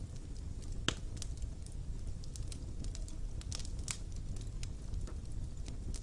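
Fire burning in a stone fireplace: a steady low rumble of flames with scattered crackles and pops, one sharper pop about a second in and a small cluster of crackles a little past the middle.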